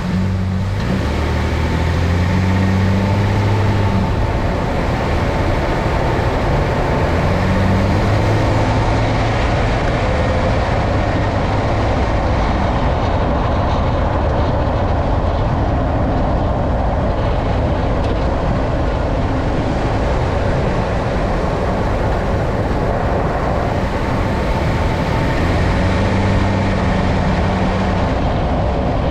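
2012 Nissan Frontier Pro-4X pickup on the move: steady road and engine noise, with a low engine tone that swells in and out a few times.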